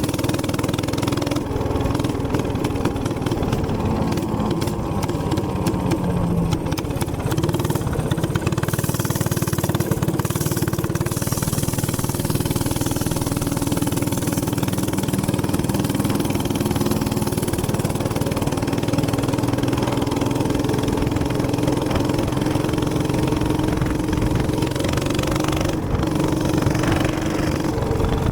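Gas minibike engine running steadily at a constant pitch, a continuous drone with hiss over it.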